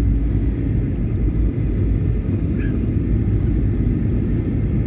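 Steady low rumble inside an airliner cabin as the plane taxis on the runway just after landing.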